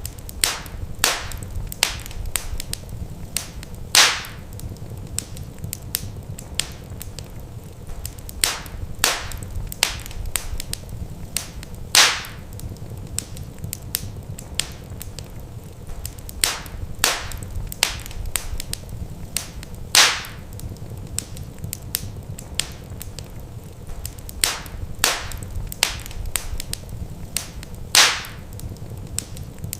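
Wood fire crackling in a fireplace: irregular sharp snaps and pops over a steady low rumble, with a louder pop about every eight seconds.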